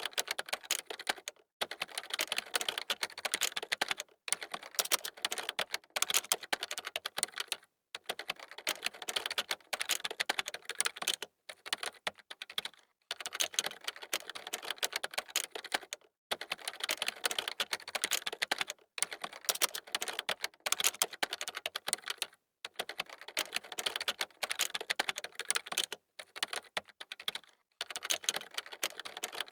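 Computer keyboard being typed on fast: dense runs of key clicks lasting a few seconds each, broken by short pauses.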